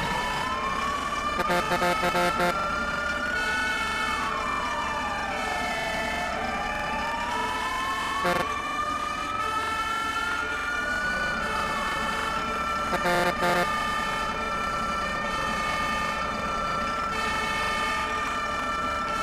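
Fire truck siren wailing, its pitch rising slowly and falling twice, then holding a steady high note through the last part. Two brief pulsing blasts of a lower tone, the loudest moments, break in about a second and a half in and again about two-thirds of the way through.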